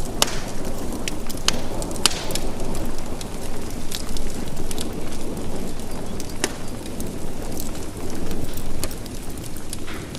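Steady rain falling, with sharp ticks scattered through it.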